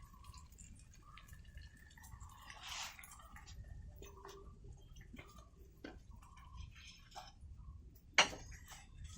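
Scattered light clicks and taps of cooking utensils and cookware, with a brief rush of noise about three seconds in and one sharp knock near the end.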